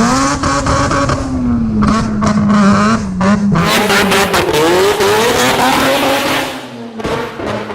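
Rotary engine of a modified car revving hard, its pitch swinging up and down, with tyres squealing in a dense hiss from about three and a half seconds in.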